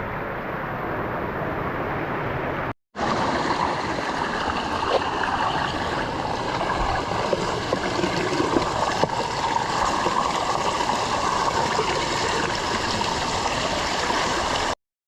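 Creek water running and splashing steadily over rocks and small cascades. The sound cuts out briefly about three seconds in and then resumes fuller and brighter.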